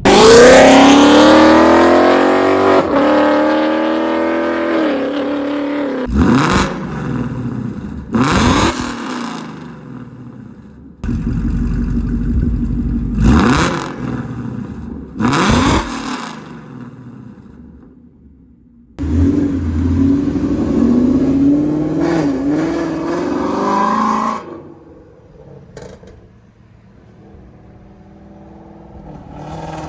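Ford Mustang GT's V8 on a Stainless Power and Borla exhaust, in a string of outside clips. It opens with a loud hard acceleration whose pitch climbs and then falls away. Several short sharp revs follow, then another stretch of acceleration, and it ends quieter.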